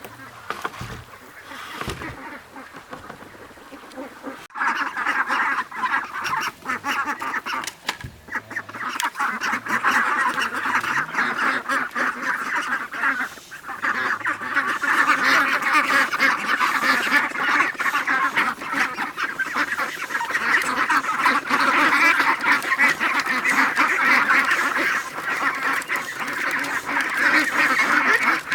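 A flock of ducks quacking together, a dense chatter that swells sharply about four seconds in and stays loud.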